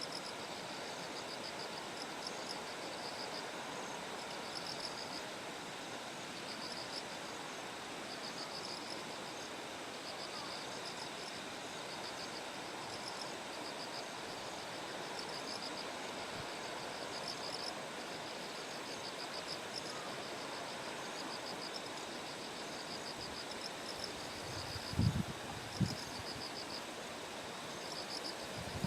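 Bell crickets (suzumushi) singing: short high trilled chirps repeating about once a second over a steady rushing background. Two brief low thumps near the end.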